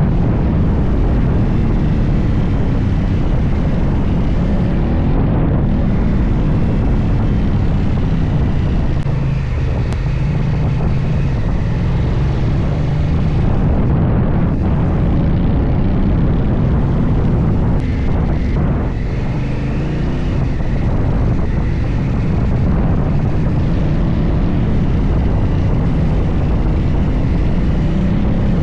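Adventure motorcycle engine running under way, its note rising and falling with the throttle.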